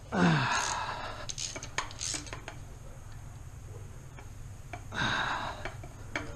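Metal tools and parts clanking and clinking during engine teardown: a loud clank with ringing right at the start, small clicks, then a second ringing clank about five seconds in.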